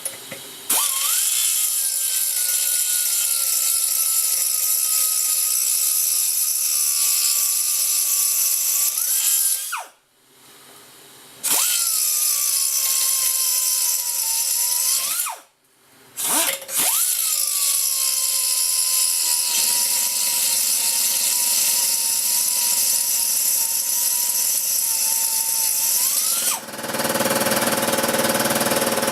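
Power grinder grinding down a fresh weld on a steel swing arm, run three times: each run spins up with a rising whine, sinks a little in pitch as it goes, and spins down when released, with short pauses between. Near the end a different steady, broader noise takes over.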